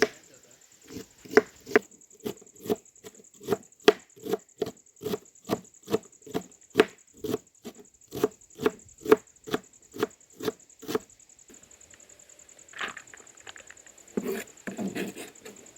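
Knife chopping on a cutting board in steady, even strokes of about two a second, stopping about eleven seconds in. A few softer, irregular knocks and handling sounds follow near the end.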